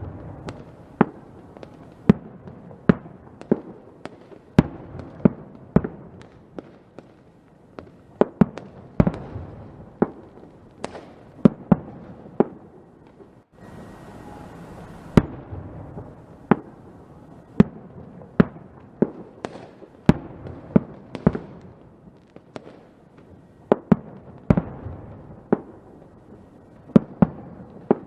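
Fireworks going off: a string of sharp, irregular bangs, roughly one a second, over a steady background of noisy crackle.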